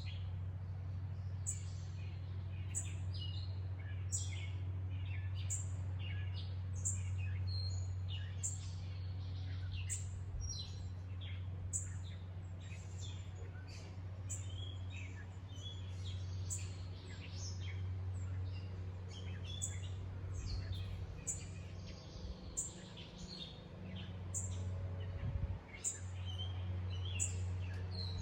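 Several wild birds chirping and calling in quick, overlapping short notes, over a steady low rumble.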